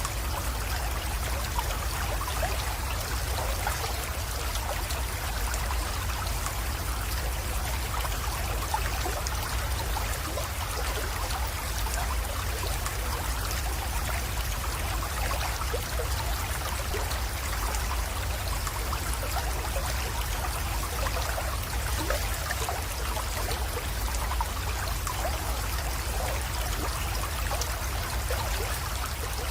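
Small creek water trickling and babbling into a pond, steady and unbroken, over a steady low rumble.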